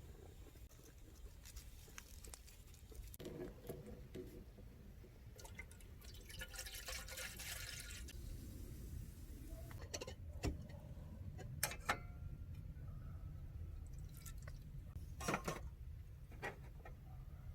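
Liquid being poured for a couple of seconds, followed by a few sharp clicks and knocks of things being handled.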